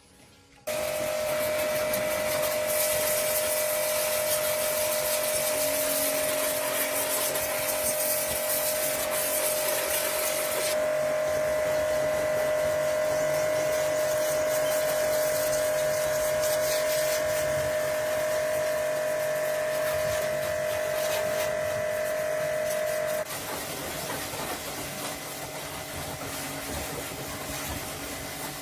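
A handheld electric power tool running steadily with a high whine and a hiss. It starts suddenly about a second in, the hiss drops off partway through, and the tool cuts out well before the end, leaving a quieter scraping noise.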